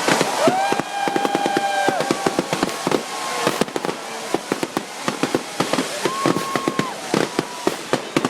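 Firework bangers and firecrackers going off in rapid, dense strings of sharp cracks and bangs. Two held whistle-like tones sound over them, one about half a second in and one around six seconds in.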